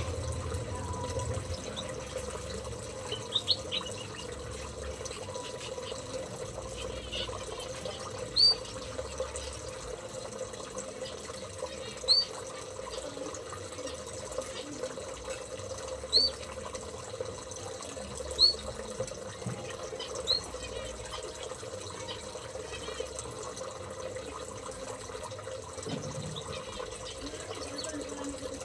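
A small aviary bird giving single short, high chirps every few seconds, about six in all, over a steady hiss.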